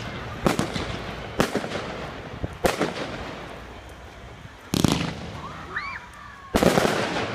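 Fireworks exploding: a series of sharp bangs at irregular intervals, and a longer, denser burst near the end.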